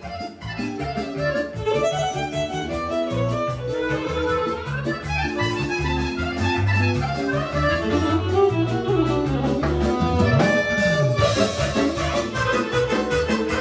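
Serbian kolo dance music with a violin lead over a folk band accompaniment, played at a quick, steady dance beat.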